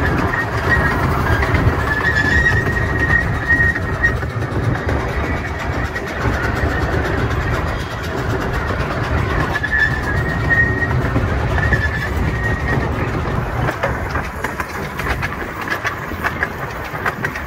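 Steam-hauled miniature railway train running along its track, heard from a passenger coach: a steady rumble and clickety-clack of the wheels on the rails, with a thin high squeal that comes and goes twice.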